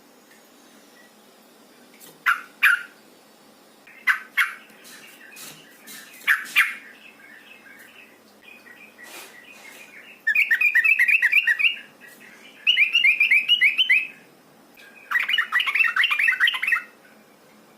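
Yellow-vented bulbul (trucukan), given as a female calling to a male: a few short paired calls, then three long bursts of fast, loud chattering a second or two apart in the second half.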